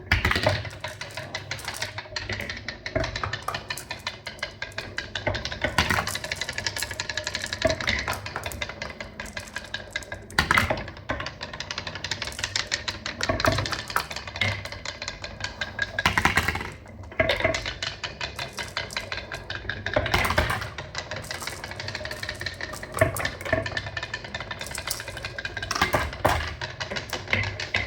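Many marbles rolling and clattering down a marble run: a rapid, continuous stream of clicks with a few louder knocks now and then.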